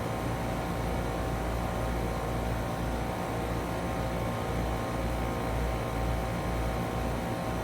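Trane XR14 heat pump outdoor unit running in heat mode, its LG scroll compressor and fan making a steady hum with a few steady tones over an even hiss.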